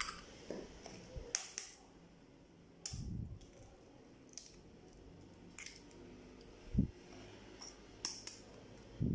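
Eggs being cracked one after another for a cake batter: sharp taps and cracks of shell every second or two, with a few dull thuds.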